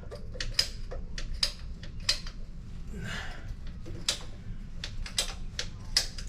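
A string of irregular light clicks and taps, a dozen or more spread unevenly, with a brief rustle about three seconds in, over a steady low hum.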